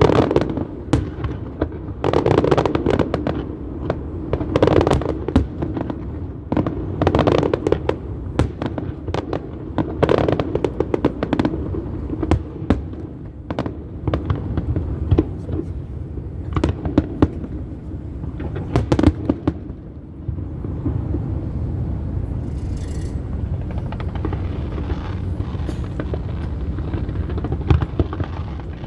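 Fireworks display: aerial shells bursting in a rapid string of bangs and crackles, with low rumbling between them. About twenty seconds in the bangs thin out into a steadier background with lighter crackling.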